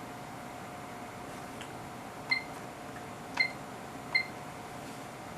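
HP 3245A front-panel keys being pressed, each press answered by a short high electronic beep: three beeps about a second apart in the middle, over a faint steady hum.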